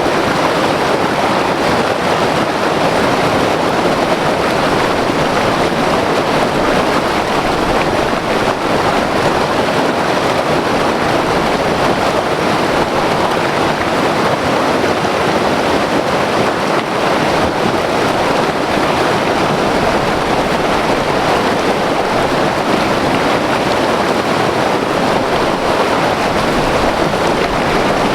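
White water river rushing over rocks, a loud, steady roar of churning water that does not change.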